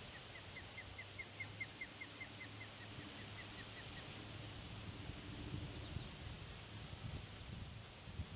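Osprey calling: a run of short, high, whistled chirps, about four or five a second, that fades out about four seconds in. Wind rumble and a low hum run underneath.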